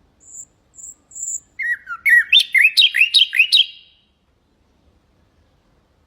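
Nightingale song: a few thin, very high notes, then a loud, fast phrase of repeated swooping notes, about four a second, that ends about four seconds in.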